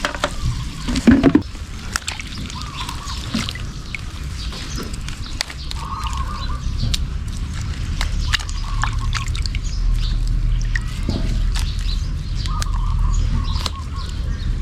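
Water sloshing and dripping with scattered light knocks, as fresh turmeric roots are handled in water. Birds call briefly a few times.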